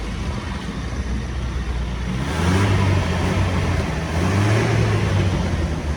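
The petrol engine of a 1970 Nissan 4x4 truck idles, then is revved twice: the pitch rises and falls with each blip, about two seconds in and again about four seconds in.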